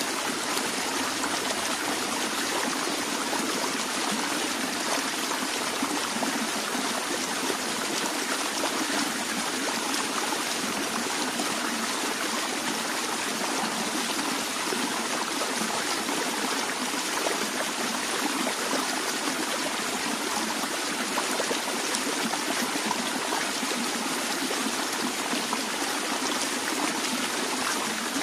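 Gently flowing stream water, a steady rushing and trickling.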